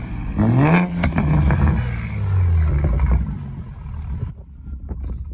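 Car engine revved hard. Its pitch sweeps up sharply about half a second in, holds briefly, then falls back over the next two seconds and settles quieter after about three seconds.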